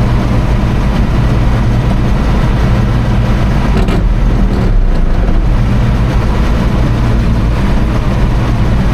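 Heavy diesel engine running steadily and loudly, heard close, a constant low drone without revving.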